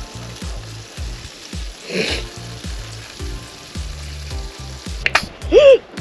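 Food sizzling on a hot pan, with a steady hiss, under background music with a regular bass beat. Near the end comes a short squeal that rises and then falls in pitch.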